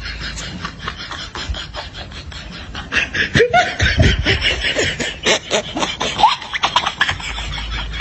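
A person laughing in short, pitched bursts, loudest from about three to seven seconds in, over a steady fast crackle of clicks.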